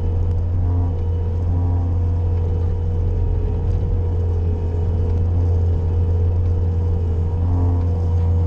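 Bobcat skid-steer loader's engine running steadily while plowing snow: a deep, constant drone with a steady higher tone above it.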